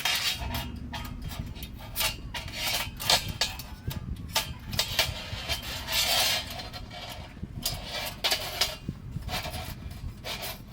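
Irregular clattering, knocking and scraping of hard objects being handled, with many short knocks and rubs scattered throughout.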